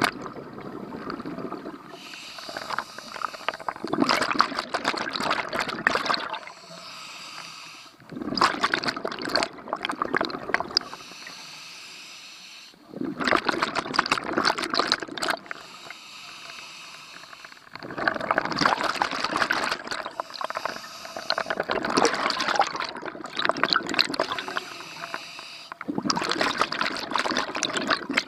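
Scuba diver breathing through a regulator underwater. Each short hissing inhalation is followed by a longer, louder rush of bubbling exhaust bubbles, and the cycle repeats every few seconds.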